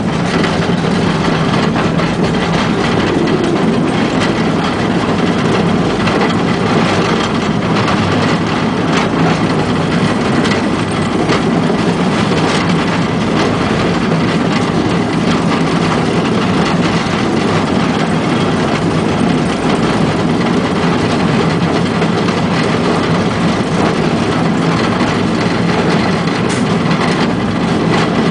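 18-inch gauge narrow-gauge train running along the track, heard from inside its cab: a steady running noise with the wheels clicking irregularly over the rail joints.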